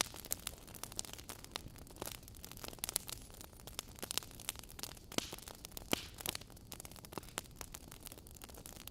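Wood fire burning in a fireplace, crackling with irregular sharp pops and snaps over a steady low hiss, a few louder snaps about five and six seconds in.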